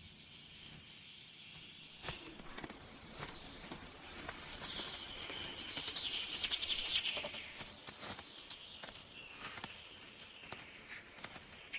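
A soft, high-pitched hiss of outdoor nature ambience that swells in the middle and fades toward the end, with scattered faint ticks.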